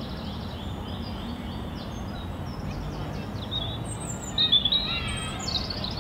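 Birds chirping and calling over a steady low outdoor background noise, with a louder run of chirps about four and a half seconds in.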